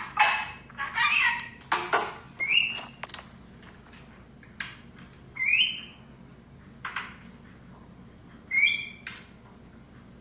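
Parrot squawking in a string of short, harsh calls every second or two, several of them with a brief rising whistle.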